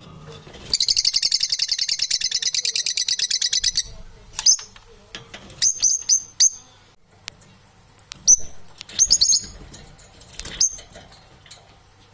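Parrots calling: a rapid, high, buzzy trill of about ten pulses a second for some three seconds, then short sharp chirps in small clusters.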